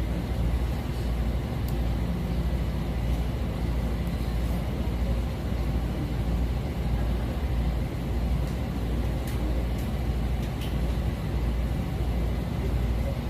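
Steady low rumble of outdoor background noise, strongest in the bass, with a few faint clicks.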